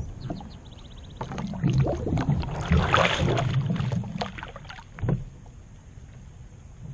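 A Hobie Pro Angler 14 kayak is launched off a trailer into the water: a knock, then about two seconds of loud bumping and water noise as the bow pitches in too deep, and another knock a few seconds later.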